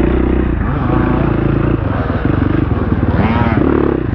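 Dirt bike engine running under way off-road, its revs rising and falling, with a quick rev blip about three seconds in.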